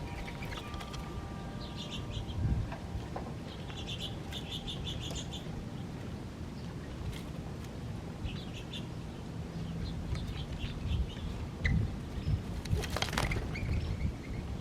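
Small birds chirping in short runs of quick repeated high notes, several times over. A brief burst of noise comes near the end, over a steady low rumble.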